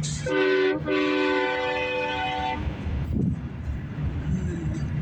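Air train horn on a customized Peterbilt 379 semi truck sounding a multi-note chord: a short blast, then a longer one of about two seconds. A steady low road rumble runs underneath.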